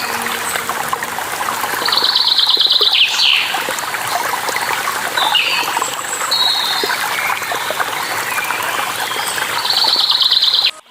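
Steady trickling of flowing water with birds chirping over it; one bird gives a rapid, even trill twice, about two seconds in and again near the end. The sound cuts off suddenly just before the end.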